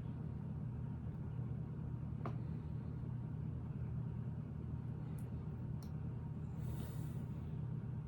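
Steady low background hum, with a few faint, sharp plastic clicks and a brief rustle as small Lego pieces are handled and pressed into place.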